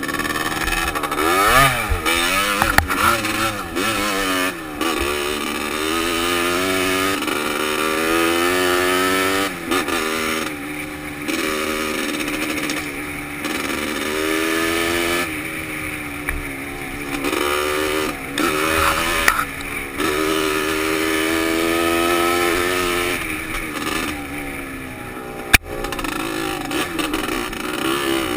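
Dirt bike's engine being ridden on a trail, heard from a helmet camera, its pitch rising and falling with the throttle and dropping in several brief lulls. A single sharp knock near the end.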